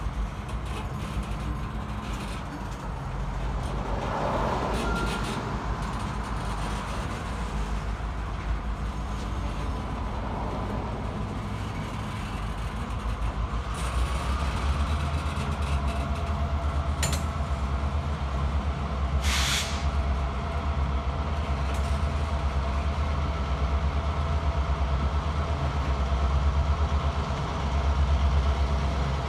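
Freight train of loaded flatcars rolling past, wheels rumbling and clacking on the rails. A diesel locomotive's engine drone grows louder through the second half as the trailing BNSF locomotive draws near.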